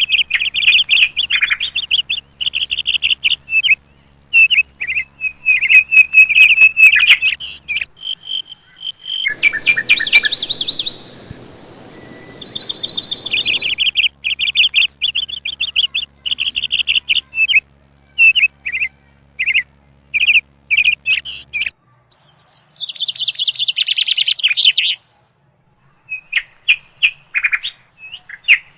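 Small birds chirping in quick, repeated runs of short high notes, with several abrupt breaks where the sound cuts out and starts again.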